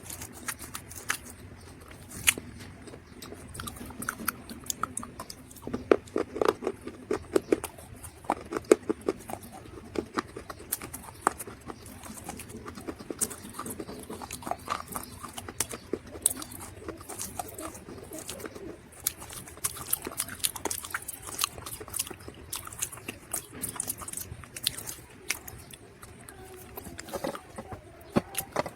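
Dried mud crunching and crumbling: a run of irregular sharp crackles and snaps, thickest about a quarter of the way in.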